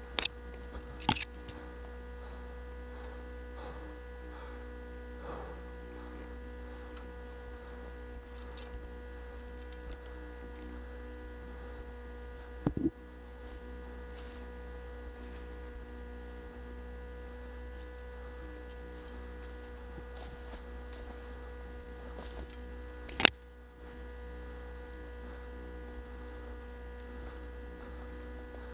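Steady electrical hum with a few isolated sharp clicks, the loudest about three-quarters of the way through.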